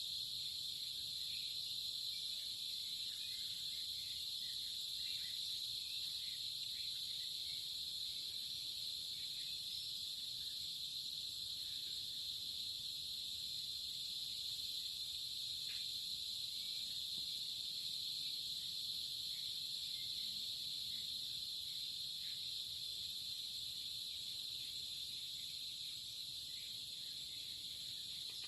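Steady, unbroken chorus of crickets, a high continuous trill with no pauses.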